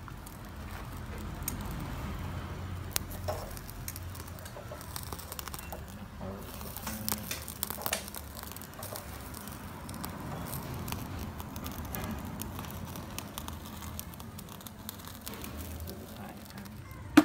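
Chickens clucking, with scattered small taps and clicks and one sharp knock at the very end.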